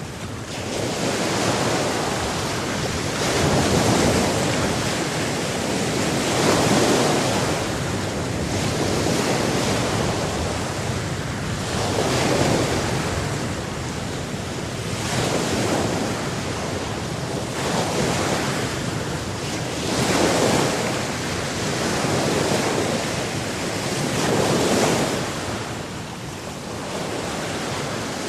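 Ocean waves breaking and washing on a shore, the surf swelling and receding every few seconds, with some wind.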